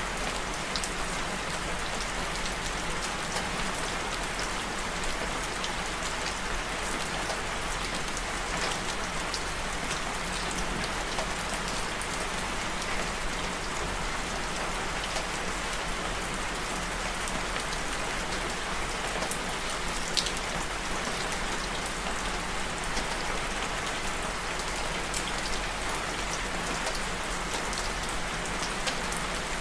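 Steady rain falling, with individual drops ticking here and there; one sharper drop stands out a little after two-thirds of the way through.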